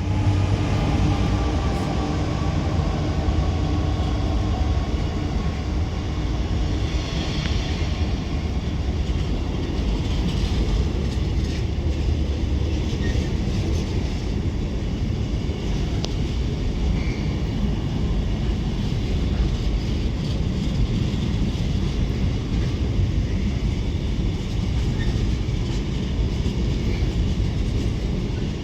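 Long freight train behind a Class 66 diesel locomotive rolling through the station, its wagons making a steady low rumble with scattered faint wheel clicks.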